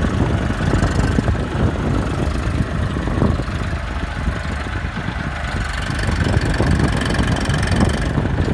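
Tractor diesel engine running steadily with a heavy, low rumble.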